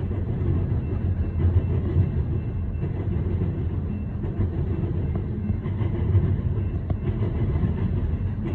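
Loaded coal hopper cars of a freight train rolling past at about 40 mph: a steady rumble of steel wheels on rail.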